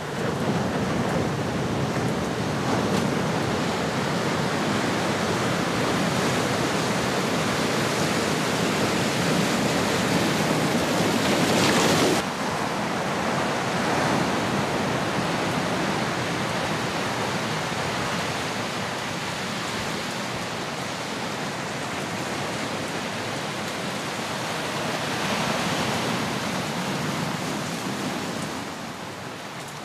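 Ocean waves washing in and out in slow swells. One surge builds and then cuts off sharply near the middle, and another swell comes near the end.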